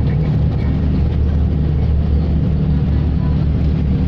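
Ship's engine running with a steady low drone and a hiss of noise above it.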